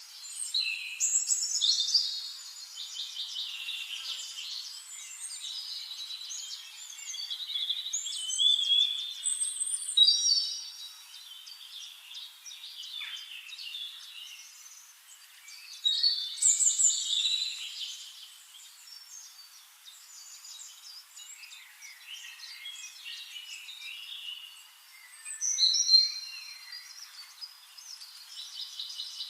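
Several songbirds singing and chirping, overlapping high trills and whistled phrases that swell into louder bursts every several seconds.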